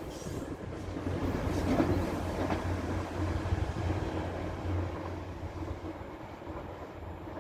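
The Royal Train, hauled by a Class 67 diesel locomotive, running away at speed. Its rumble and wheel clatter fade steadily into the distance.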